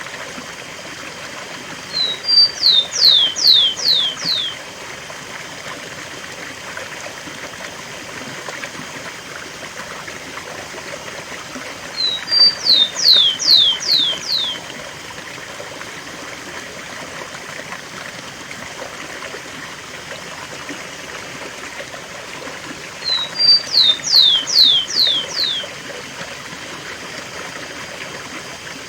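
Rufous-collared sparrow (tico-tico) singing its 'cemitério' song three times, about ten seconds apart: two short high notes, then five quick whistles, each sliding downward. Behind it, the steady rush of a waterfall.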